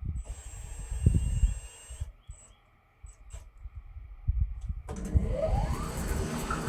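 Scattered knocks, then about five seconds in the Woodland Mills HM126 bandsaw mill's engine and saw start up suddenly and run, rising in pitch as they come up to speed.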